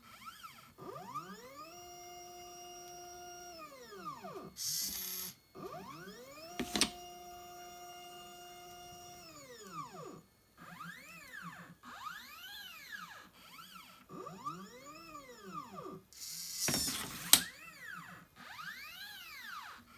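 NEMA-17 stepper motors of a 3D-printed SCARA robot arm whining through a series of moves, each pitch gliding up as the motors accelerate, holding steady, then gliding back down as they slow. Twice a short noisy burst ends in a sharp click, the loudest moment about 17 seconds in.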